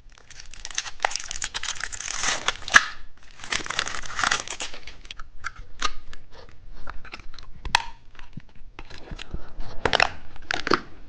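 Plastic candy wrapper being torn open and crinkled, probably the packaging of a car-key-shaped candy. Two longer bursts of tearing and rustling in the first half are followed by scattered crackles and a few more crinkles near the end.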